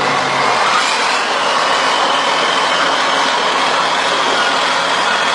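Truck running, a steady, even engine and road noise with no breaks, and a faint high whine that rises slowly from about two seconds in.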